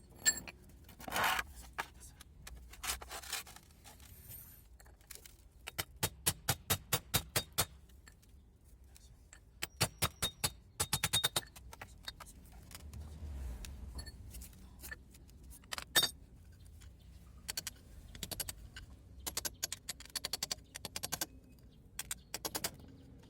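Metal hand tools at work on a car's suspension: clinks and scrapes, with several runs of quick, evenly spaced clicks and a sharp knock about two-thirds of the way through.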